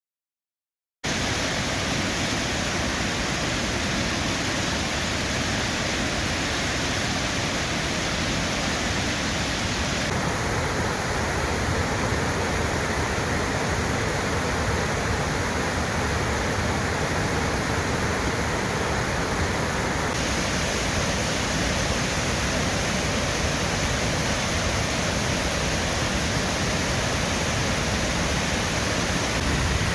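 Štrbački buk waterfall on the Una river: a loud, steady rush of falling water that starts about a second in. Its hiss changes slightly in tone twice, about a third and two thirds of the way through.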